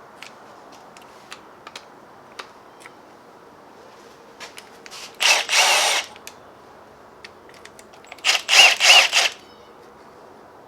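A handheld power driver runs twice, about a second each time, backing out bolts as the Hemi's lifter trays come off. The second run comes in several short pulses. Light clicks of tools and parts fall between the runs.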